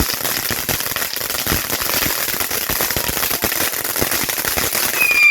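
Fireworks going off in a dense, fast crackle of pops. Near the end a high, steady whistle starts.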